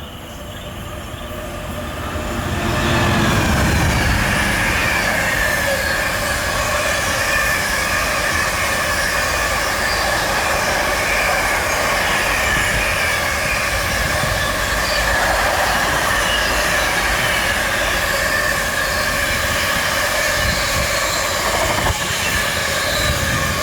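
Class 66 diesel locomotive and its train passing at speed. The sound builds over the first few seconds, then holds loud and steady as the train rolls by, with a continuous high squeal from the wheels on the rails.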